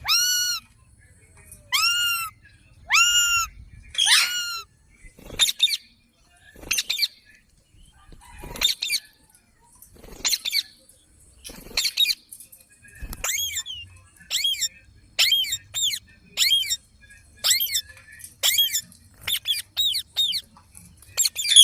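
Pet green parrot squawking over and over, short shrill calls about one a second. The first few calls arch up and down in pitch, and the later ones are higher and sweep downward.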